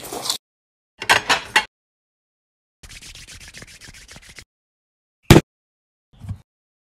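Eating sounds: a few quick crunchy bites, then a run of rapid quiet munching and chewing strokes. A single sharp knock follows just after five seconds, then a soft low thump.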